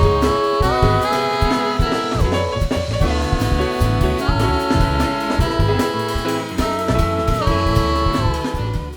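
Small jazz group playing live: a held melody line that steps between long notes over double bass and drums, fading out at the end.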